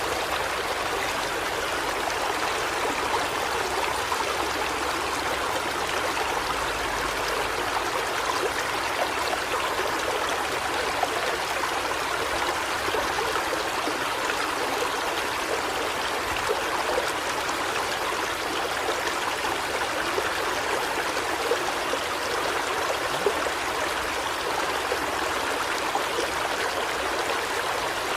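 Steady rushing noise of running water, unchanging throughout, with a few faint small clicks.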